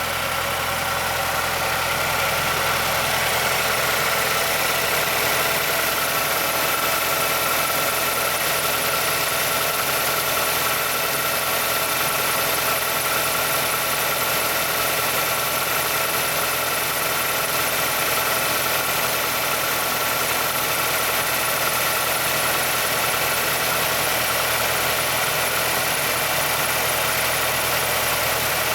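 Mazdaspeed6 2.3 L DISI turbocharged four-cylinder idling shortly after a cold start, heard close to the timing chain area, with a pronounced clicking in the engine sound. The owner takes the click for the timing chain/VVT actuator noise covered by Mazda's SSP-87: a worn VVT lock pin or a stretched timing chain.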